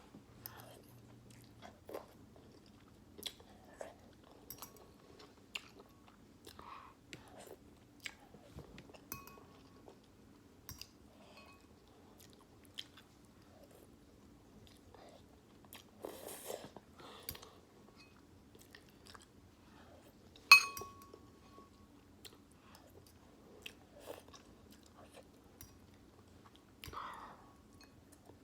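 Close-up chewing and mouth sounds of a person eating beef ramen noodles, with soft irregular clicks. A single sharp ringing clink stands out about two-thirds of the way through.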